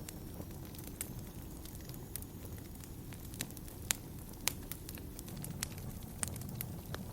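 Wood fire burning in a fireplace: a steady low rumble of flames with irregular sharp crackles and pops, two louder pops near the middle.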